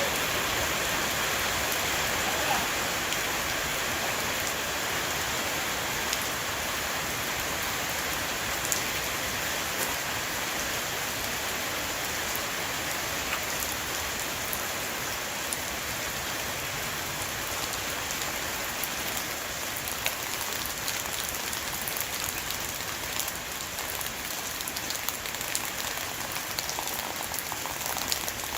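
Heavy rain pattering steadily on a roof, with many separate drop ticks over a dense hiss.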